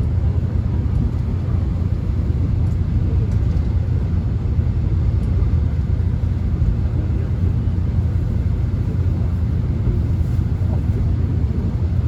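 Subway train running, heard from inside the carriage: a steady low rumble with a lighter hiss above it.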